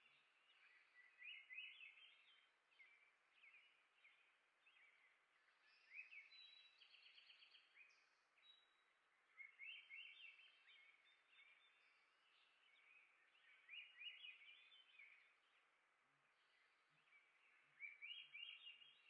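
A songbird singing faintly, a short phrase of quick notes repeated about every four seconds, over a quiet steady hiss.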